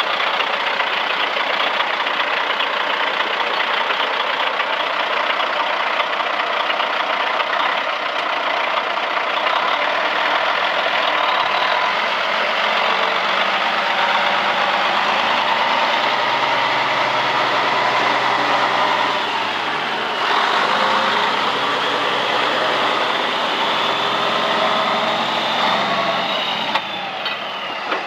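A 2003 International 7000 truck's diesel engine running steadily, mostly at idle, with slight shifts in engine pitch in the second half. It gets a little quieter just before the end.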